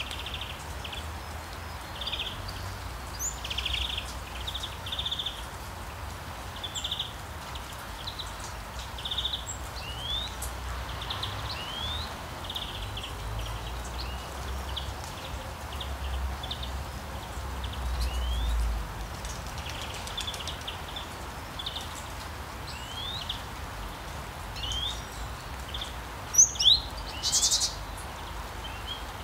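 Birds chirping over a steady low outdoor rumble, with repeated short chirps and quick rising whistles throughout. Near the end come two louder, sharper calls.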